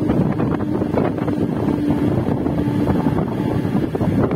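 Wind buffeting the microphone at the open door of a moving suburban electric local train, over the train's steady running noise on the rails. A steady low hum sits under it for the first three seconds or so.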